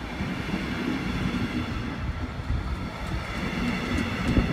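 DB Regio double-deck regional train rolling along the platform and away, a steady rumble of wheels on rail with a short low thump near the end.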